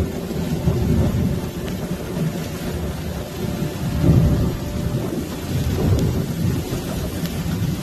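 Thunder rolling in a low rumble that rises and falls, over the steady hiss of heavy rain during a severe storm.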